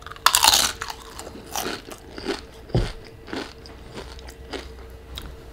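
Crunchy bite into a tortilla chip topped with guacamole, loudest just after the start, followed by repeated crunches of chewing every half second or so.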